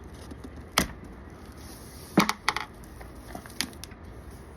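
A few sharp clicks and clinks of hard parts knocking together as the contents of a motorized bicycle engine kit are handled and unpacked: one about a second in, a quick cluster a little past two seconds, and one more shortly after.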